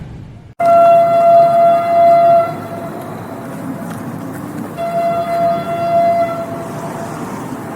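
Train horn sounding two long, steady blasts of about two seconds each, the second starting around five seconds in, over the rumble of a moving train. The sound breaks off sharply about half a second in before the first blast.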